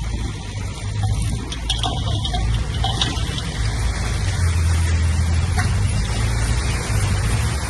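Heavy diesel earthmoving machinery running, a steady low engine drone with a hiss of noise over it; the drone grows stronger for about a second around the middle.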